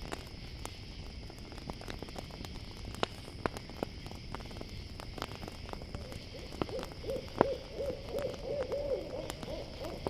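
Campfire crackling and popping over a steady chirring of crickets. About six seconds in, an owl starts a quick run of short repeated hoots that carries on to the end.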